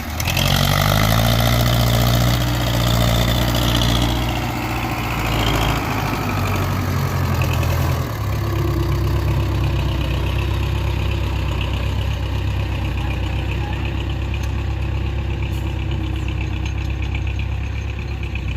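Belarus MTZ tractor's diesel engine running hard for about eight seconds, then dropping in revs and running on steadily.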